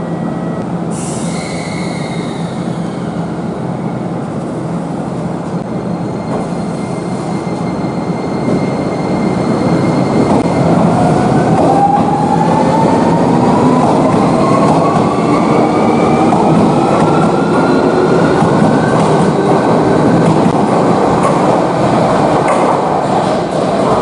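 Electric train pulling away and accelerating: steady rumble of wheels on rail, getting louder about eight seconds in, with its motors whining in several tones that rise together in pitch.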